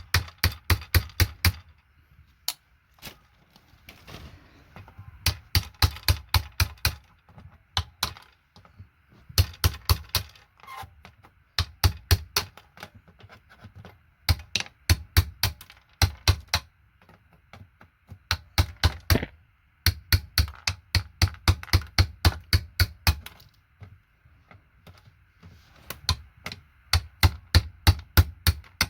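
A vintage keyboard being dismantled: quick runs of sharp clicks, about eight a second, each run lasting one to two seconds with short pauses between runs.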